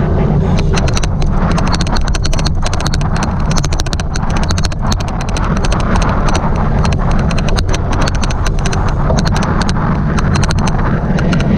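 Loud, steady rumble from riding a cyclocross bike, with a rapid, irregular clicking throughout.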